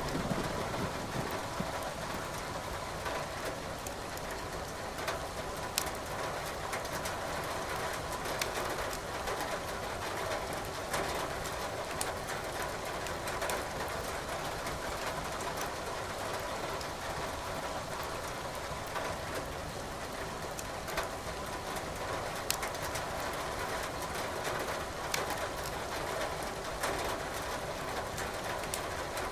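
Wood logs crackling and popping in a fireplace, with irregular sharp snaps over a steady hiss of rain.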